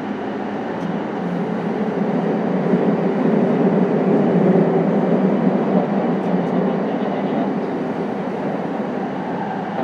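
JR East E233 series 5000-subseries electric train running at speed, heard from inside the passenger car: a steady rumble of wheels on rail that swells louder through the middle of the stretch.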